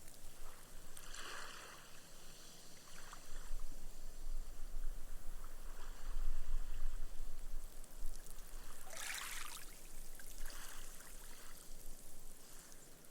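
Small, gentle sea waves washing up a sandy beach and soaking into the sand, fizzing as the foam dies away. One wash swells over several seconds near the middle, and a sharper fizzing wash comes about nine seconds in.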